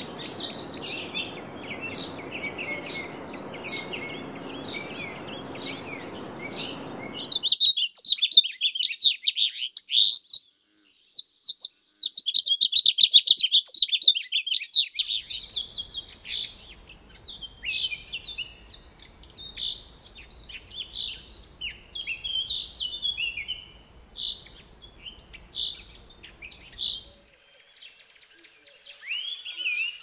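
Several birds chirping and trilling in quick, overlapping calls, over a soft background hiss in places. The sound drops out briefly about ten seconds in.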